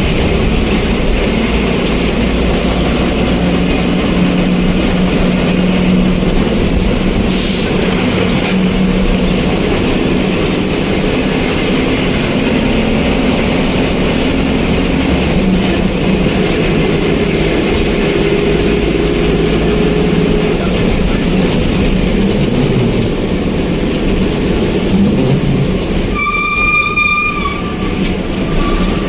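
Steady rumbling running noise of a moving vehicle, with a horn sounding one steady high note for about two seconds near the end.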